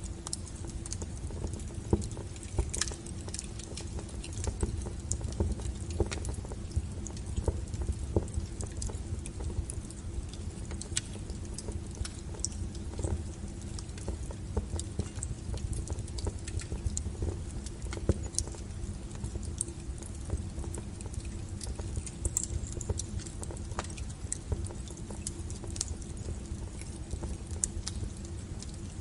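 Burning firewood crackling: irregular sharp pops and snaps over a steady low rumble of the flames.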